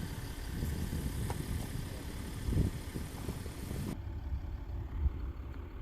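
A vehicle engine running steadily with a low rumble. The hiss above it cuts away abruptly about four seconds in.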